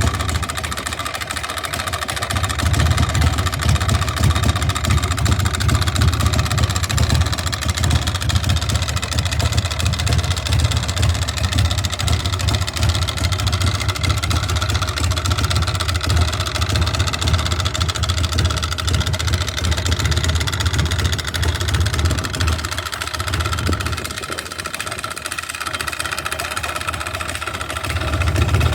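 V-twin engine of a Bourget Dragon chopper idling steadily, its low running sound easing off for a few seconds near the end before coming back.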